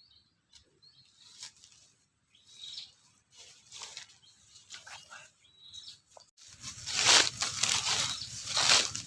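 Small birds caught on bird lime fluttering and rustling, faint at first with a few high chirps, then much louder and in pulses from about six seconds in.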